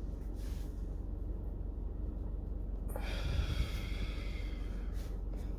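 A smoker's long breath on a blunt, drawn in or blown out, starting about three seconds in and lasting about two seconds, over a steady low hum.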